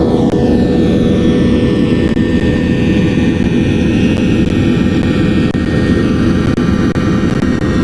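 Airbus A380 airliner's four jet engines at high power on departure: a loud, steady rumble with high whistling tones that slide down in pitch as the aircraft passes and draws away.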